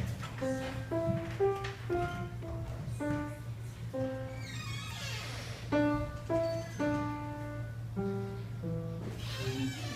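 A simple melody played one note at a time on a musical instrument: short, separate notes at an uneven pace, with a few pauses, over a steady low hum.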